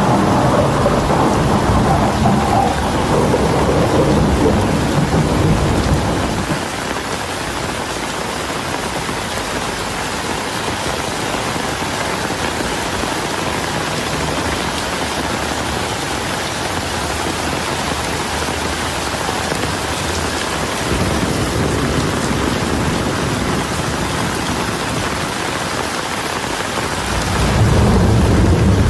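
Heavy rain falling steadily, with rolling thunder rumbling loud at the start, fading out after about six seconds, returning more softly in the second half, and swelling again near the end.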